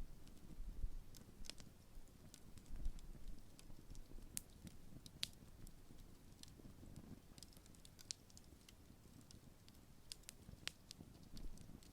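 Large wood bonfire burning low as it dies down, giving sparse, irregular crackles and pops over a soft low rumble of flame.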